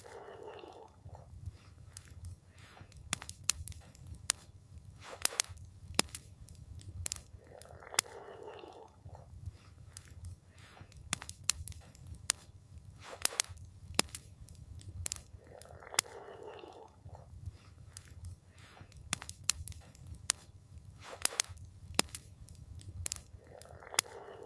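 Campfire crackling, with irregular sharp pops and snaps over a steady low rumble of the burning fire. A soft rushing swell recurs about every eight seconds.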